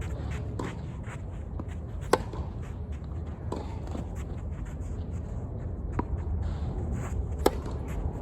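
Tennis ball struck by rackets and bouncing on the court during a point: a series of sharp pops, the loudest about two seconds in and again near the end, over a steady low rumble.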